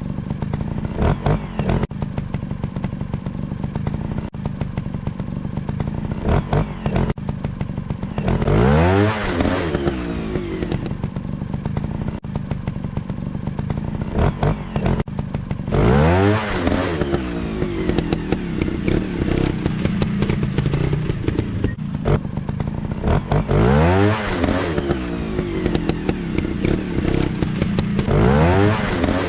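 Motocross dirt bike engines running, with three hard revving surges where the pitch climbs, roughly every eight seconds.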